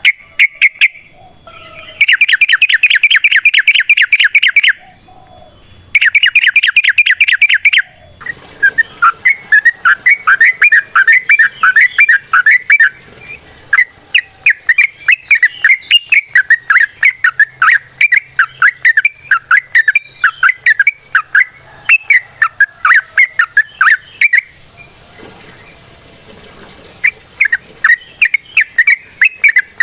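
Yellow-vented bulbul (trucukan) singing. Two bursts of a few seconds each of very fast repeated chirps, then a long run of rapid chattering phrases. It breaks off for about two seconds near the end, then starts again.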